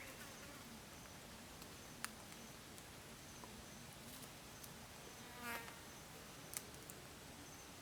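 Faint buzzing of a flying insect, wavering in pitch and coming and going. A short call sounds about five and a half seconds in, and two sharp clicks come about two and six and a half seconds in.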